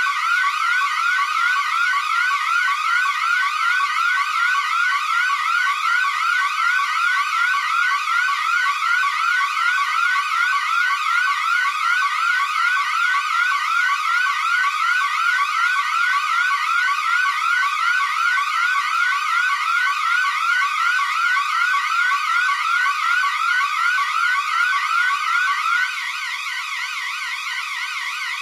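Electronic building evacuation alarm sounding a loud, fast-repeating rising sweep tone, several sweeps a second. Near the end the sweeping drops out and a quieter steady tone remains.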